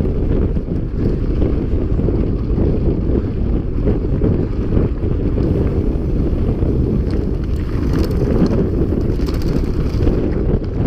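Wind buffeting a bike-mounted action camera's microphone during a fast mountain-bike ride, a steady low rumble. Scattered rattling clicks in the second half.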